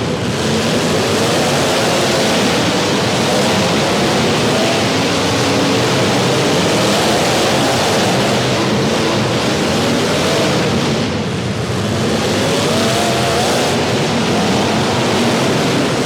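Several demolition derby cars' engines revving hard at once, their pitches rising and falling as the cars accelerate and back up, over a constant loud rush of noise.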